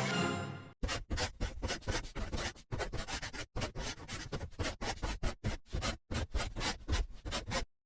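Quick, irregular scratching or scraping strokes, several a second, that stop suddenly near the end, after the tail of fading music in the first second.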